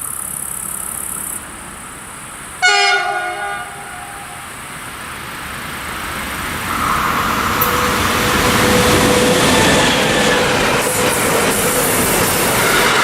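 A train horn sounds one short blast about three seconds in, the kind of horn greeting drivers give trainspotters. Then a train comes up and passes, the rail noise swelling and staying loud with wheels clicking over the rail joints.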